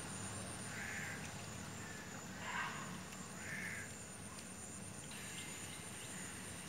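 Harsh, crow-like bird calls: three short caws in the first four seconds, the middle one the loudest, over a steady high whine.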